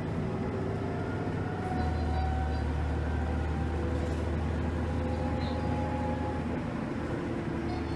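Ride inside a moving transit motor coach: steady low engine and road rumble that swells about two seconds in, with a faint whine drifting slightly in pitch above it.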